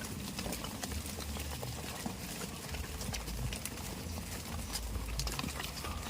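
Goat hooves clicking and tapping irregularly on hard ground, over a low steady rumble.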